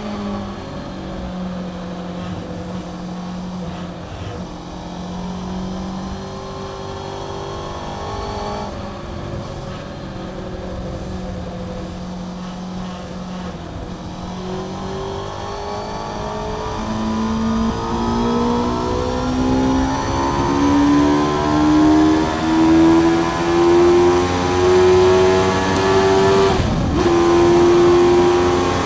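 Honda CBR600F inline-four with a Mivv aftermarket exhaust, heard onboard at track speed: the revs drop at the start, hold at a lower, fairly steady pitch through a long stretch, then climb steadily under acceleration through the second half, with a brief break for a gear change near the end. Wind and road noise run underneath.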